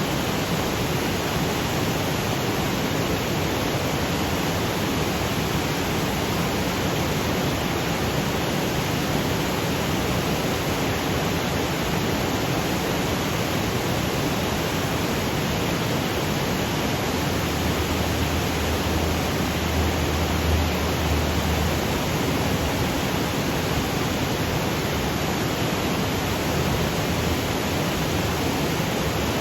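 Waterfall cascading over granite boulders, a steady even rush of water with no let-up. A brief low rumble swells and fades about two-thirds of the way through.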